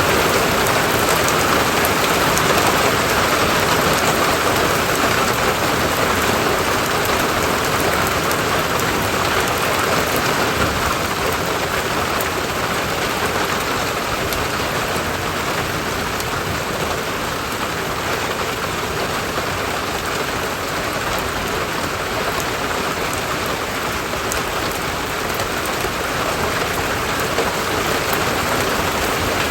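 Steady rain falling: an even, dense hiss of drops on surfaces.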